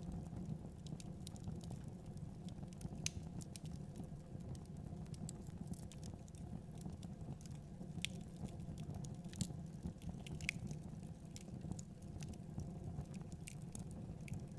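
Fire burning in a fireplace: a steady low rumble of flames with scattered, irregular sharp crackles and pops.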